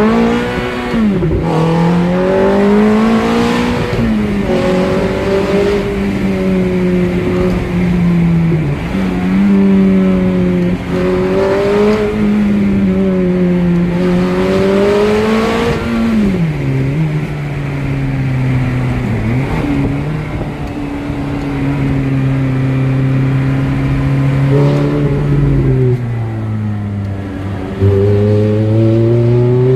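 Ferrari engine running hard under load, its pitch climbing slowly and then dropping sharply several times as it shifts gears.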